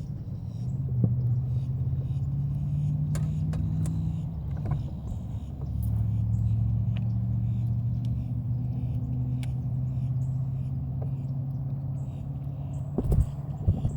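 An engine running steadily with a low hum, its pitch stepping up and down a few times; a few sharp clicks and knocks near the end.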